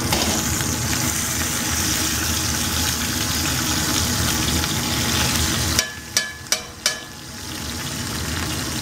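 Sliced potatoes and onions sizzling in a cast-iron skillet as a metal spatula stirs them. About six seconds in the sizzle drops away and three sharp metal taps from the spatula ring out, then a quieter sizzle goes on.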